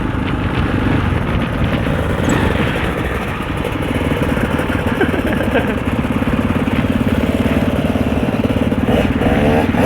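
Husaberg 650 single-cylinder four-stroke enduro dirt bike engine running under way, holding a steady, even note through the second half.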